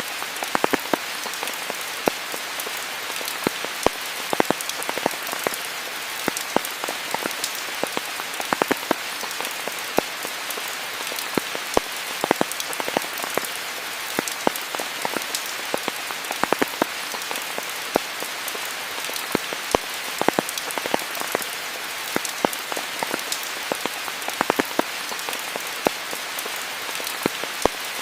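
Steady rainfall hissing, with many close individual drops landing as sharp irregular taps on top of it.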